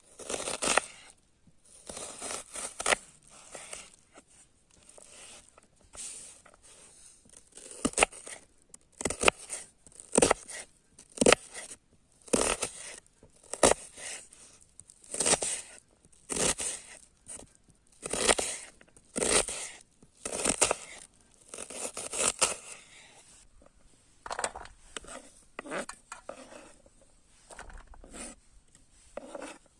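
Repeated short rustling, tearing scrapes, roughly one a second, from hands working food during cooking.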